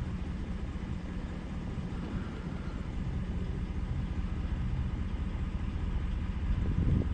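Car driving, with steady engine and road rumble heard from inside the cabin, swelling slightly near the end.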